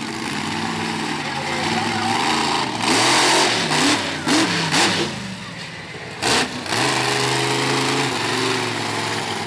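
Monster truck engine revving hard, its pitch rising and falling several times in the middle, with a few short, loud bursts of noise, then running on at a steadier pitch near the end.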